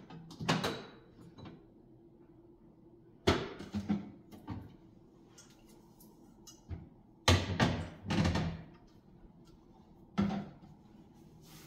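Jars and bottles being set down on refrigerator shelves: four short clusters of knocks and clunks.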